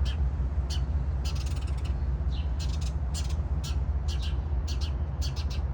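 Small birds chirping in quick clusters of short, high chirps, several a second, from birds fighting over food. A steady low rumble runs underneath.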